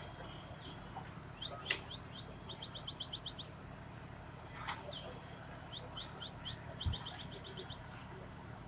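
A small bird chirping in quick runs of short high notes, over a steady low hum. A couple of sharp clicks stand out, the loudest about two seconds in.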